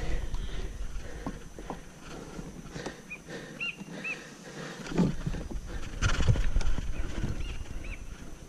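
Knocks, thumps and rustling as a freshly landed jack is handled in a kayak for measuring, with a few short high chirps.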